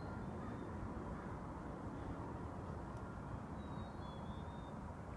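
Steady low outdoor drone with no distinct events, which the filmer takes for a massive beehive buzzing in the valley below. A few faint, short high whistles come in near the end.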